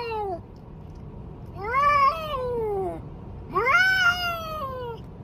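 A cat meowing: long drawn-out meows that rise and then fall in pitch, one fading out just as the sound begins, then two more about a second and a half apart.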